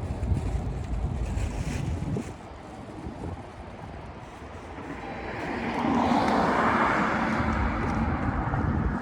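Outdoor noise: wind buffeting the microphone with a low rumble. From about halfway a vehicle passes, growing louder.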